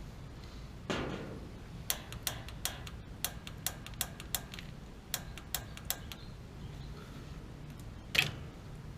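Piezo igniter on a gas water heater clicking repeatedly, about a dozen sharp clicks at an uneven pace, while the pilot is being lit. A rustle about a second in and a louder knock near the end.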